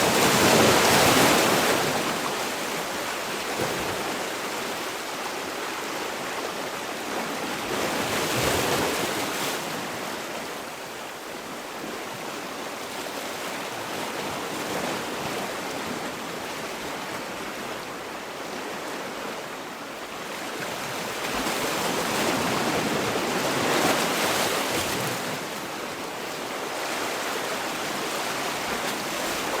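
Sea waves breaking and washing on a shore: surges of surf swell up three times, just after the start, around a third of the way in and again past the two-thirds mark, with a steady hiss of wash between them.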